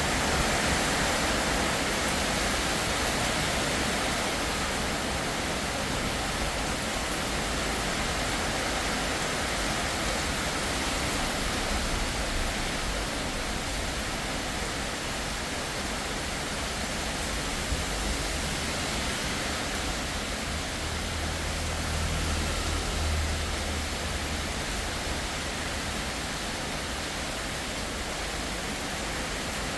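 Heavy rain pouring in a steady downpour, with a low rumble from wind gusts near the start and again about twenty seconds in.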